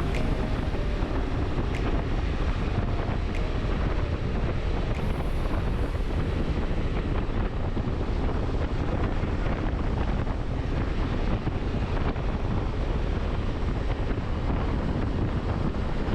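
Wind buffeting the microphone on a moving motorcycle: a steady rush of wind and road noise.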